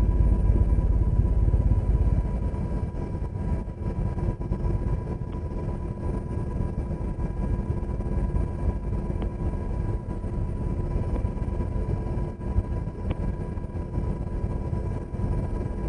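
UH-60 Black Hawk helicopter in flight, its twin turboshaft engines and rotors making a steady low rumble with a steady whine above it.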